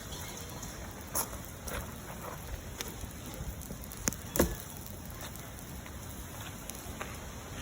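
Bonfire crackling: a steady rush of burning with scattered sharp pops and cracks, the loudest two in quick succession a little past four seconds in.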